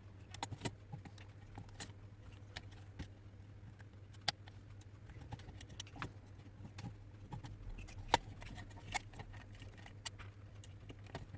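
Scattered light clicks and taps of a plastic hair dryer's parts being handled and fitted back together during reassembly, with one sharper click about eight seconds in.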